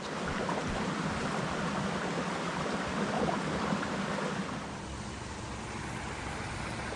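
Steady rushing noise with a fluctuating low rumble, starting abruptly.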